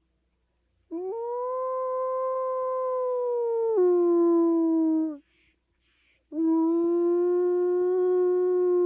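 A dog howling in long held howls. The first rises in pitch, holds, then drops suddenly near its end; after a short gap with a few faint breathy puffs, a second, steadier howl follows.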